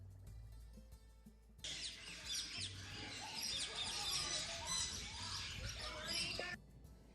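A flock of aviary birds chirping and twittering all at once, many overlapping quick calls and whistles, with soft background music under it. The chatter starts abruptly about a second and a half in and cuts off suddenly near the end.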